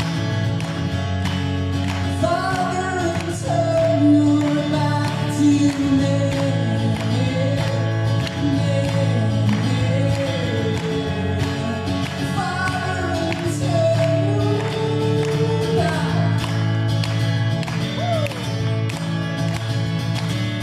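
Live acoustic guitar strummed steadily, with a man's voice singing a melody over it in two long phrases and no clear lyrics.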